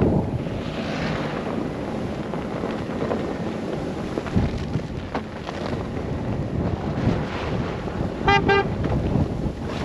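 Wind buffeting the microphone in a snow blizzard as a car drives, with a short double toot of a car horn about eight seconds in.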